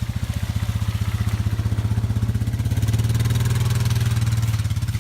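ATV (four-wheeler) engine running at low speed with a rapid even putter, growing louder about halfway through as it pulls forward.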